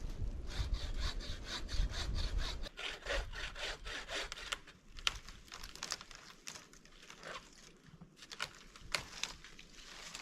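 Hand saw cutting wood: quick rhythmic rasping strokes, then slower, scattered strokes from about five seconds in. Low wind rumble in the first few seconds.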